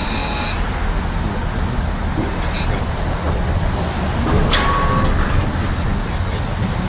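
Truck engine idling steadily while the Fisher snowplow's hydraulic system angles the blade, with a short hiss and thin whine in the middle.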